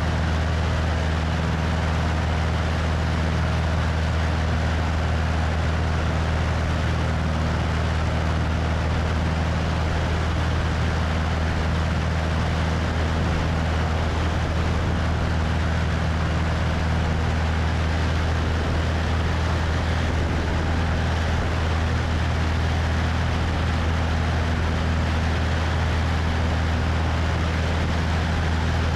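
Cessna 172's piston engine and propeller running steadily in flight, a constant low hum with wind rushing over a wing-mounted microphone.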